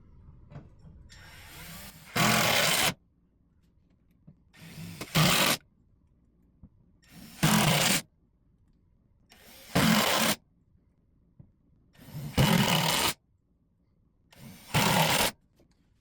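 Power drill driving screws, six times in a row: each time a short soft start, then about a second of full-speed whirring, a pause of a second or so between screws.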